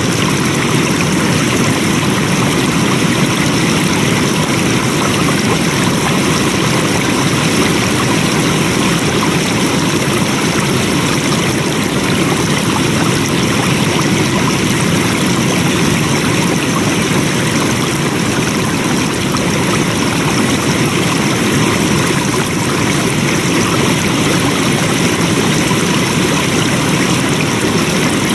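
Flowing water: a stream running in a steady, unbroken rush.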